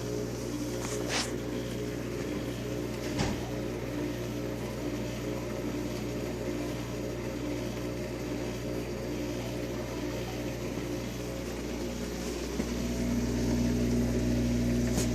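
Whirlpool dishwasher running with a steady mechanical hum of several held tones, a click about three seconds in, and the hum growing louder with a stronger tone near the end. The owner counts it as a fault noise: the machine hums but no water is circulating inside.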